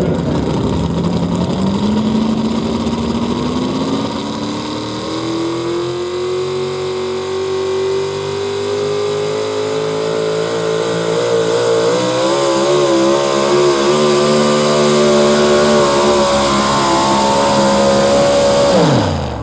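Modified 4x4 pulling truck's engine at full throttle, dragging the weight sled down the track. The pitch climbs steadily as the engine gains revs, then falls away sharply near the end as the power comes off.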